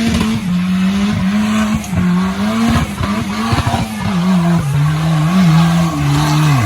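Suzuki Samurai off-roader's engine labouring under load, its steady hum sagging lower in pitch in steps through the second half, with repeated knocks and clatter over it.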